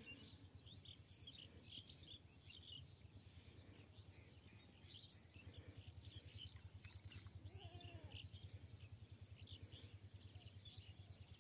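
Faint bird chirping, many short calls scattered throughout, over a steady high-pitched hiss. A low rhythmic pulsing grows stronger about halfway through.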